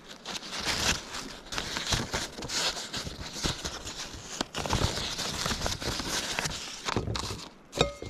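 Rustling and crinkling of packaging or gear being handled, with many small clicks and crackles, easing off near the end.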